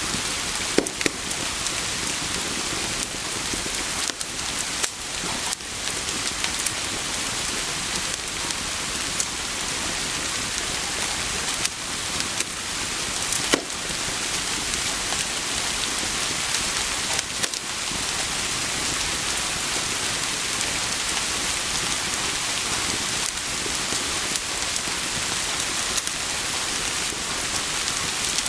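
Steady rain hiss, with a few sharp crackles of a wood fire in a fireplace scattered through it.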